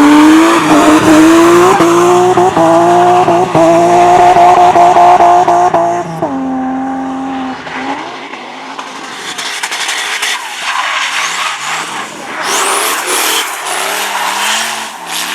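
A drift car's engine revving hard close by, its pitch climbing and dropping again and again. About six seconds in it holds a steady note. It then goes quieter, with wavering revs and tyres squealing.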